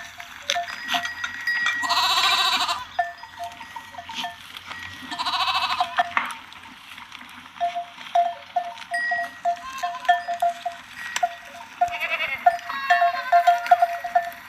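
Goats bleating: two loud, quavering bleats about two and five seconds in, and fainter bleats near the end, while a small bell, such as a goat's neck bell, clinks over and over.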